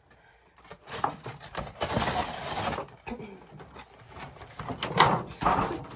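Plastic and cardboard doll packaging rustling and crinkling as it is pulled and worked open by hand, in irregular bursts with small clicks, busiest about two seconds in and again near the end.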